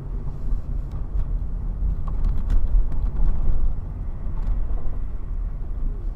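Road and engine noise of a moving vehicle: a steady low rumble with a few faint clicks.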